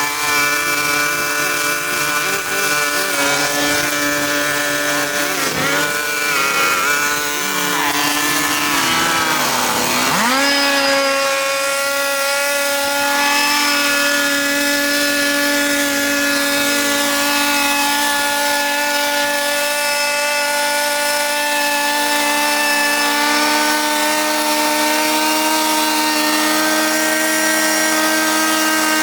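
Small engine of a power tool running at high speed with a steady pitch. About nine seconds in, the pitch dips sharply and climbs back, as when the tool bogs under load, then holds steady again.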